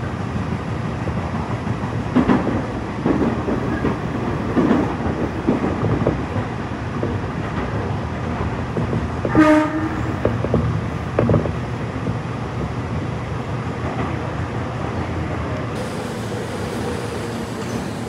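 Electric commuter train running, heard from inside the car: a steady rumble with clacks of the wheels over rail joints, and a short, loud pitched tone about halfway through.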